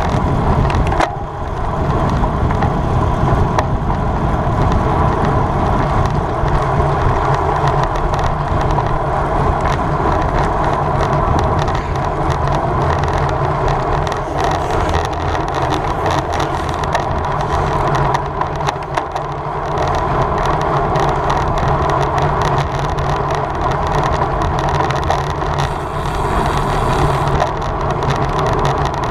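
Steady, loud rush of wind over the microphone of a camera riding on a road bike at race speed, with road and tyre noise underneath.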